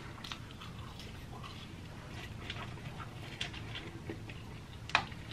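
Close-up chewing and mouth sounds of someone eating French fries: soft wet smacks and small crackles, with one sharper click near the end.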